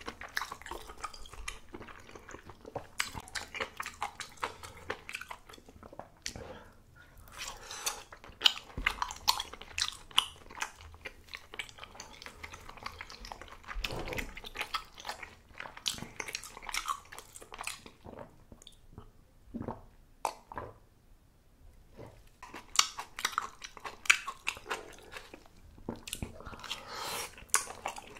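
Close-up chewing and biting of spicy malatang: many short wet clicks and smacks of the mouth working, easing off for a few seconds about two-thirds of the way through.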